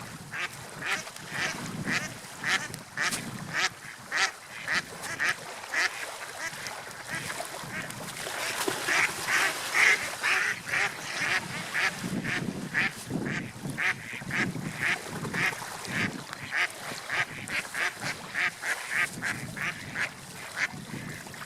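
Ducks quacking in a long series of short calls, about two to three a second, over a low background wash.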